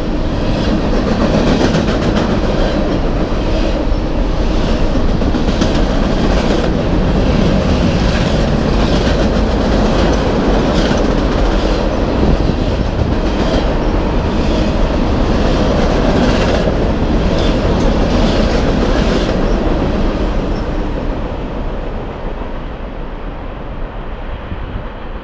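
Freight train's covered hopper cars rolling past, a steady rumble with repeated wheel clacks. The sound fades away from about twenty seconds in as the last car passes.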